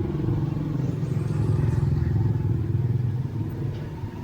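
A motorcycle engine running steadily in busy street traffic.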